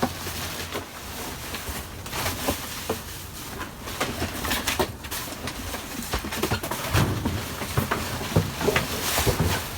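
Rummaging through trash: irregular knocks, clicks and rustles, with a few heavier thumps in the second half.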